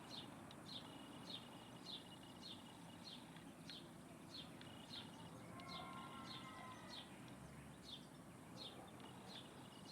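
A bird repeating a short, high, down-slurred chirp about twice a second, faint and regular.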